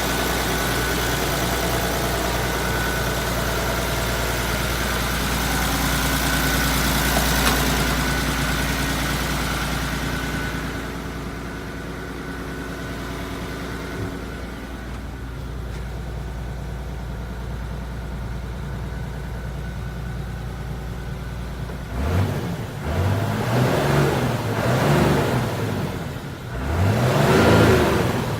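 Hino Ranger truck's diesel engine running steadily, dropping to a quieter idle about ten seconds in. Near the end it is revved four times in quick succession, each rev rising and falling back, the last the loudest.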